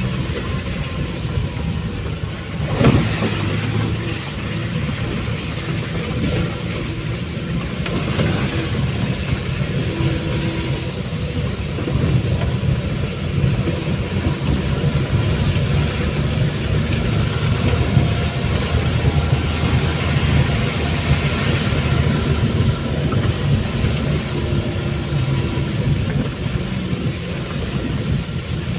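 A vehicle running steadily, a continuous low rumble of engine and road noise, with one sharp knock about three seconds in.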